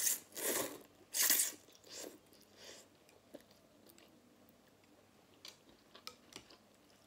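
Close-miked eating sounds of someone chewing food: three loud, wet bites or chews in the first second and a half, two softer ones, then quiet chewing with small mouth clicks.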